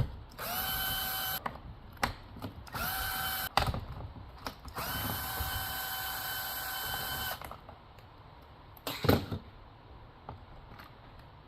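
Cordless electric screwdriver or drill running in three bursts, each whine rising quickly to a steady pitch, the last and longest about two and a half seconds, backing out the screws of a chainsaw's body cover. Clicks between the bursts and a single knock near the end.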